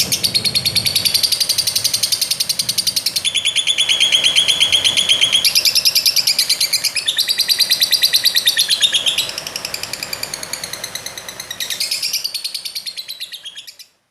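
Lovebird chattering: a continuous stream of fast, shrill, repeated chirps that shifts in pitch every second or two, softening in the last few seconds and fading out near the end.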